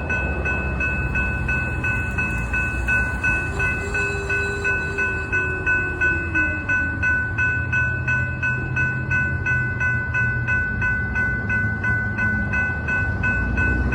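Railroad grade crossing warning bell ringing at about three strokes a second, over the low rumble of a train. The bell stops at the very end.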